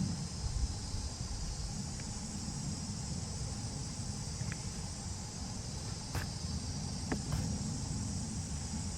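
Steady high-pitched chorus of insects, with a low wind rumble on the microphone and a few faint clicks about six and seven seconds in.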